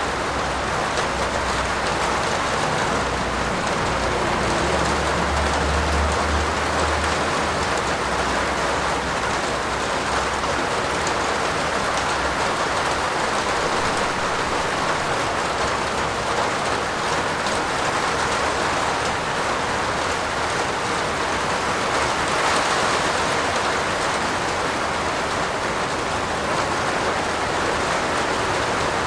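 Steady heavy rain falling on a roof, an even unbroken hiss. A brief low rumble comes in about five seconds in.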